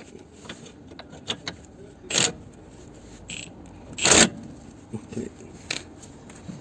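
Metal clicks and scrapes of tools and bolts while a car's subframe is bolted back up. Two short, loud, noisy bursts come about two and four seconds in.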